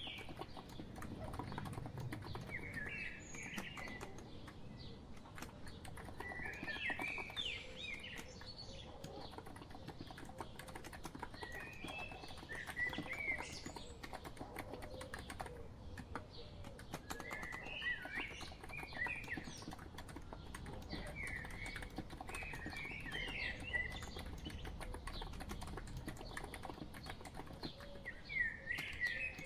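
Steady typing on a COX Empress electro-capacitive keyboard, a continuous patter of soft key clicks. Over it, short chirping bird-song phrases come about every five seconds.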